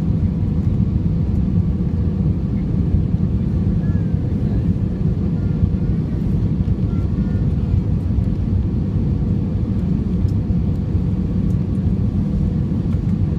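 Steady low roar of an airliner in flight, heard from inside the cabin: engine and airflow noise with a faint steady hum on top.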